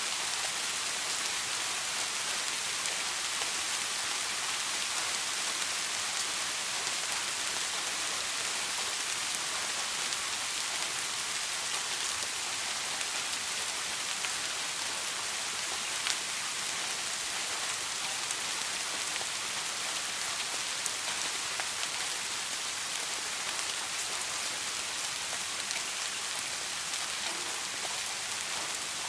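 Soft, steady rain falling, an even hiss with a few sharper raindrop ticks here and there.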